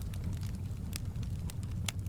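Wood fire crackling in a fireplace: scattered sharp pops over a steady low rumble, with one louder pop near the end.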